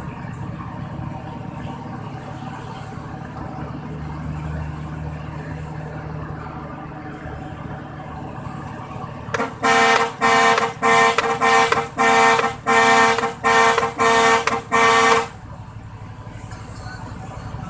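A vehicle horn honked in a rapid series of about nine short blasts, about two a second, over steady engine and road noise of a truck on the move.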